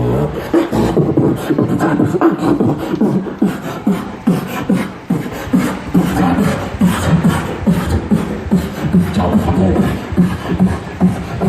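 Beatboxing: a fast, unbroken run of rhythmic vocal mouth sounds with no words.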